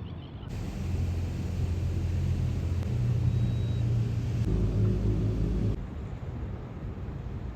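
Deep, steady engine hum from a large motor yacht manoeuvring to dock, which cuts off abruptly near the end.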